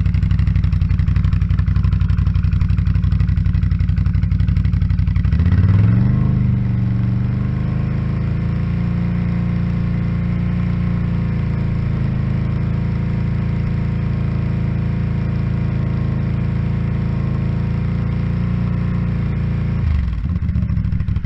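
Can-Am Outlander ATV's V-twin engine, breathing through an aftermarket exhaust, idling and then revved at about five seconds in to a steady held speed of about 3,500 RPM for a stationary exhaust sound-level test. It holds there for about fourteen seconds, then drops back to idle near the end.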